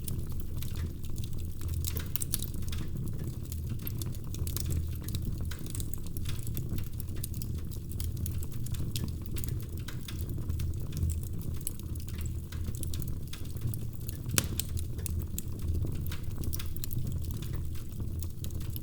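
Wood fire in a fireplace crackling, with scattered small pops over a low steady rumble, and one sharper pop about fourteen seconds in.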